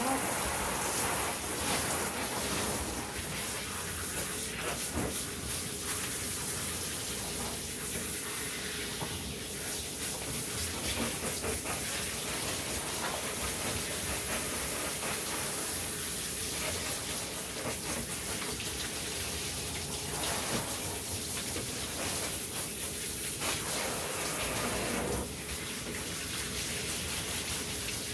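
Water running steadily in a dog-grooming tub while a small dog is bathed.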